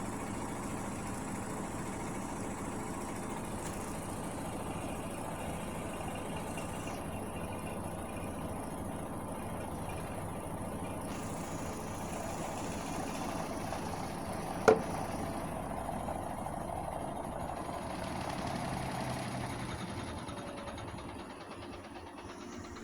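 Hotpoint Aquarius washing machine running with a steady mechanical hum, with one sharp knock about two-thirds of the way through.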